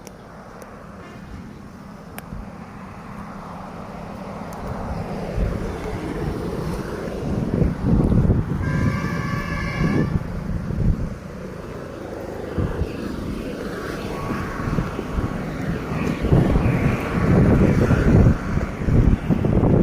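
A vehicle rumbling and growing steadily louder as it approaches, with a horn sounding briefly about halfway through.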